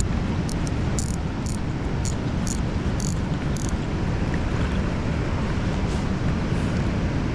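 Steady rush of fast-moving water and wind. About eight sharp, high clicks come roughly half a second apart in the first half.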